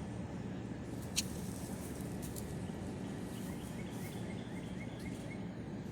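Steady outdoor background rumble with one sharp click about a second in, then a quick run of about eight short, high bird chirps in the second half.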